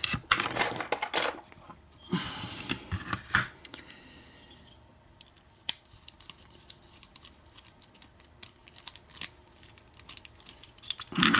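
Small metal lock parts clicking and scraping as a pin-tumbler lock is taken apart. A quick run of sharp clicks comes first, then a short scraping rustle, then occasional faint ticks.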